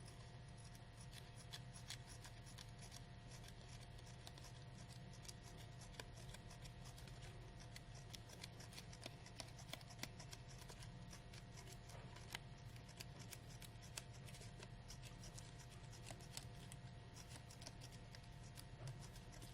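Scissors making many small, faint snips in quick, irregular succession, cutting a fine fringe into the edge of a crepe paper petal. A faint steady hum runs underneath.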